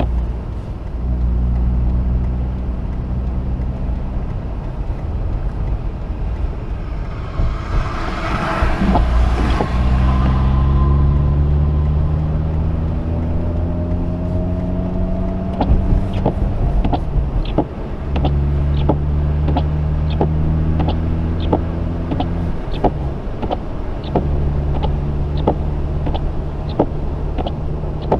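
Mazda RX-8's twin-rotor Wankel rotary engine under way. It runs steadily, then rises in pitch as the car accelerates, drops suddenly as it shifts up, and settles into a steady run. A short hiss comes around a third of the way in, and regular ticks run through the second half.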